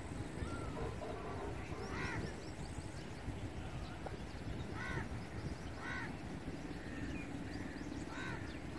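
Birds calling: several short calls spaced a second or more apart, each rising and falling in pitch, over a faint low hum in the second half.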